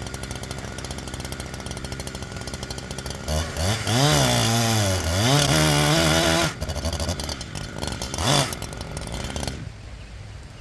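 Gas chainsaw running at a steady low speed, then revved hard for about three seconds with its pitch rising and falling. It throttles back, is blipped once briefly, and drops to a much quieter idle near the end.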